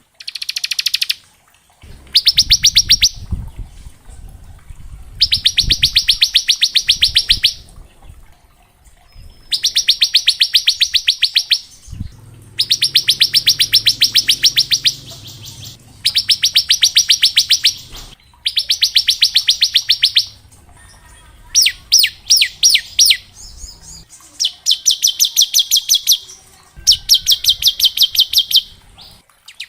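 Bar-winged prinia (ciblek) singing its 'ngebren' song: bursts of very fast, high, rattling notes, each lasting one to two seconds and repeated every few seconds.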